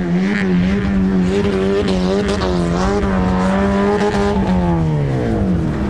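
Off-road race vehicle's engine held at high revs under load, its pitch wavering slightly, then the revs falling away near the end.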